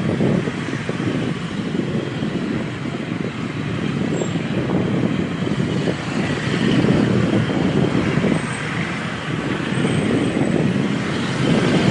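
Road and traffic noise heard from a moving motorcycle, a steady rushing that swells and dips with surrounding vehicles.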